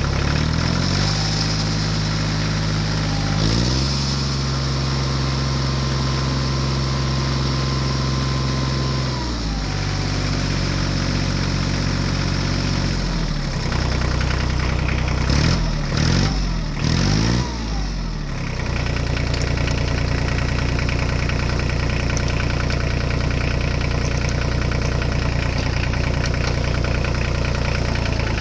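Tractor-style engine running, its pitch stepping down and up several times as if changing speed, wavering up and down for a few seconds past the middle, then holding steady.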